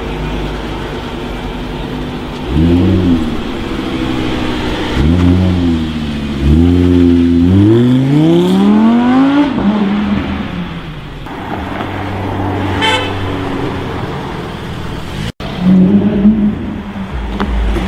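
Sports-car engine revving on the street: two short rev blips, then a longer rev rising steadily in pitch as the car accelerates away. A brief car horn toot follows, and after a sudden cut another engine revs.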